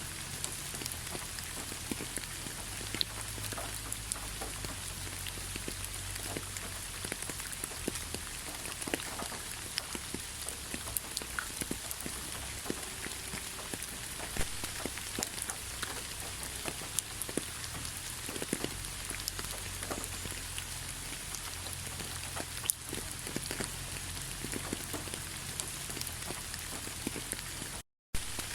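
Steady rainfall, a constant hiss with many individual drops ticking sharply on surfaces. The sound cuts out for a split second near the end.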